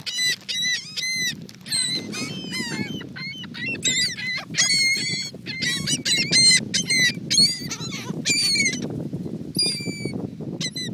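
Seagulls calling in a crowd: many short, arched, squealing calls overlapping, one after another without pause, over a steady low rush.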